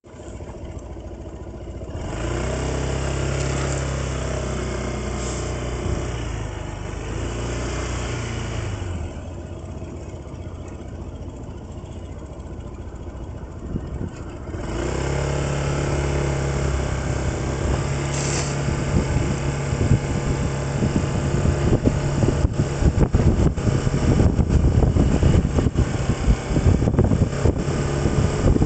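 A vehicle engine running with a steady low hum. About nine seconds in it drops to a quieter idle, and about fifteen seconds in it picks up again as the vehicle gets under way. In the last third, irregular buffeting from wind or the road is mixed in with it.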